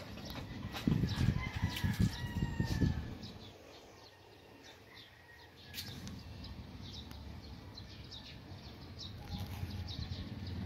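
Small birds chirping in short high notes, over and over, with a longer falling call about a second and a half in. A burst of low rumbling noise dominates from about one to three seconds in.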